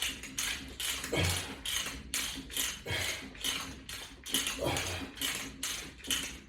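A man breathing hard and fast while exercising, short rhythmic breaths two to three a second, with a low grunt on some exhales: he is tiring from the workout.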